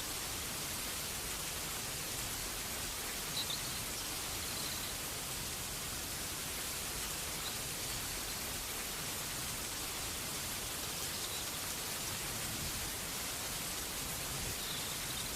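Steady rain falling, an even hiss. A few faint short high chirps come through it about three and a half seconds in, again around four and a half and seven and a half seconds, and near the end.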